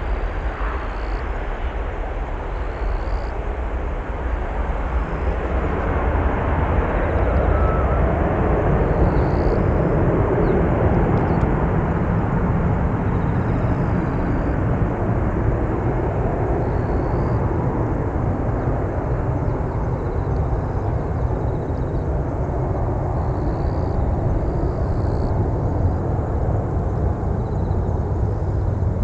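Airbus A321ceo airliner's jet engines at takeoff power: a loud, steady rumble that swells to its loudest about ten seconds in, then eases slightly as the higher hiss fades.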